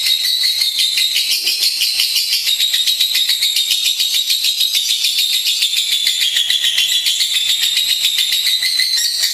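Lovebird singing an unbroken, high-pitched chattering trill of rapid notes that runs on without a pause. This is the long continuous song ('ngekek') that is played as training material for pet lovebirds.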